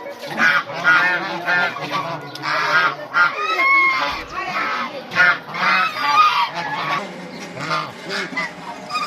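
A flock of birds calling continuously, many short overlapping calls one after another.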